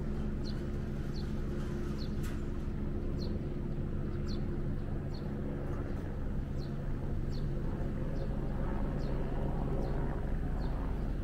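A Yoro Railway electric train drawing into the station, its low rumble and hum building toward the end as it pulls alongside the platform. A bird gives short high chirps about once a second throughout.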